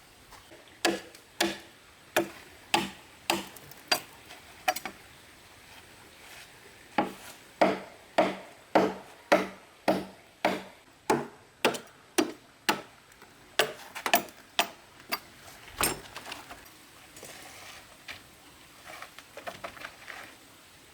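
Repeated blows of a tool striking bamboo, evenly spaced at a little under two a second with a short hollow ring on each. They come in two runs with a pause of about two seconds between, then give way to lighter, irregular clattering near the end.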